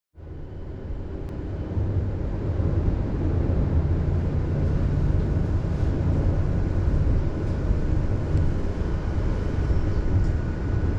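Tram running, heard from inside the car at the rear window: a steady low rumble with faint higher tones. It fades in over the first two seconds.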